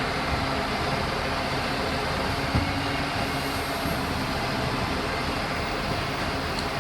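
A Euro 6 garbage truck's diesel engine running steadily near the vehicle, with a single light knock about two and a half seconds in.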